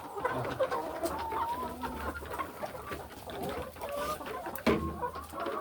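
A flock of chickens clucking continuously, many birds calling over one another, with scattered sharp clicks and one louder knock near the end.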